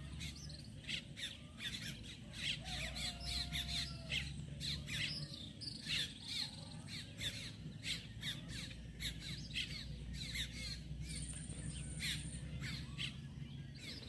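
Birds chirping and squawking, many short calls overlapping without pause, over a faint low steady hum.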